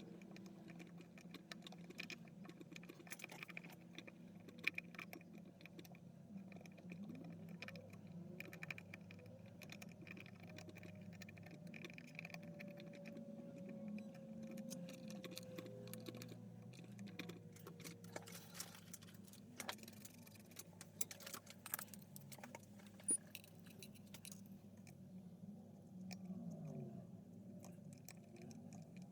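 Faint scattered clicks and scrapes of hand tools working on a TV power supply board, as silicone compound is removed and MOSFETs are desoldered, over a low steady hum.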